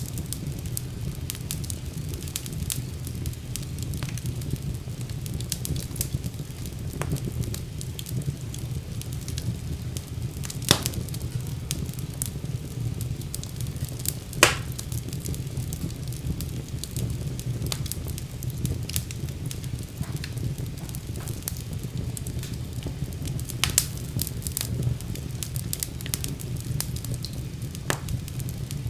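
Wood fire burning in a fireplace: a steady low rumble of flames with frequent sharp crackles and pops, two louder pops around a third and halfway in.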